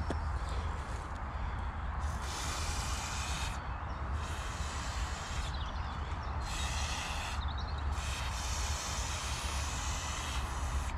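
Aerosol can of GT85 penetrating oil spraying in four hissing bursts, the last one the longest, to soak a rusted-in barbecue post at its base.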